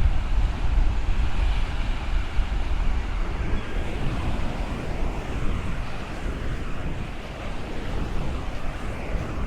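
Ocean waves breaking and washing along the shore, with wind buffeting the microphone in a steady low rumble.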